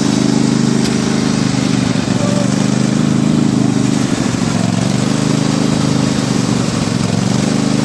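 Engine of a pulley-swapped riding lawn mower running close by, steady with its pitch dipping and wavering briefly about two and four seconds in.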